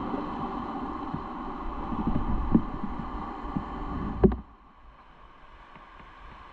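Motorcycle running with low, irregular thumps. About four seconds in there is a sharp knock, and the engine noise drops away suddenly to a much quieter background.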